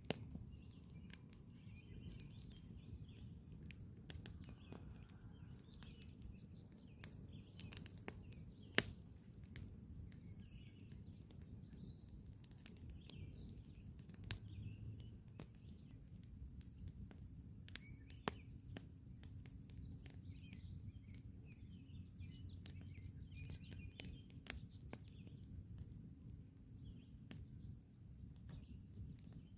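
Wood campfire crackling, with scattered sharp pops and one louder pop about nine seconds in, over a low steady rumble. Birds chirp in the background throughout.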